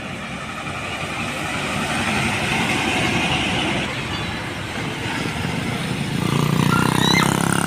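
Road vehicles passing by. One swells up and fades in the first few seconds, then a louder engine passes close near the end.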